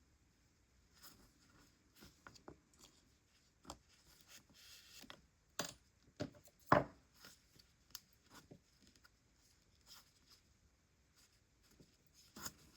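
Soft rustling and scattered small knocks of hands handling yarn and a crocheted piece while sewing, the yarn being pulled through the stitches. A few sharper knocks come just past the middle, the loudest about seven seconds in.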